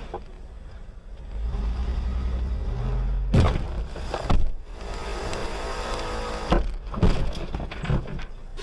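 A car engine running with a low rumble that swells about a second in. It is cut by sharp knocks about three and a half and four and a half seconds in, and by several more near the end.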